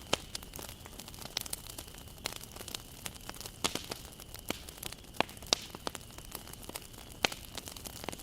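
Wood fire crackling: irregular sharp pops and snaps, a few each second, over a soft steady hiss as the flames burn the logs.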